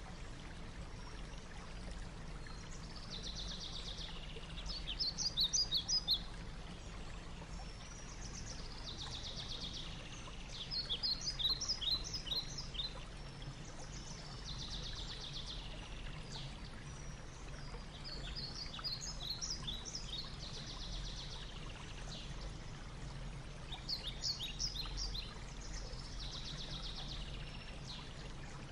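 A songbird singing repeated phrases, each a buzzy trill followed by a run of quick descending chirps, coming back every six or seven seconds over a steady low rumble.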